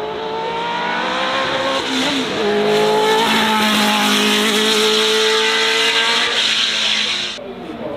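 Racing car engine accelerating hard, its pitch climbing with an upshift about two seconds in, then rising again louder. The sound cuts off abruptly near the end.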